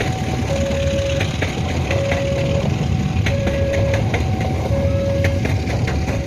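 Railway level crossing warning signal sounding a steady two-tone alternation, a higher note then a lower one, repeating about every second and a half. Under it runs a heavy rumble of engines, with scattered clicks and knocks.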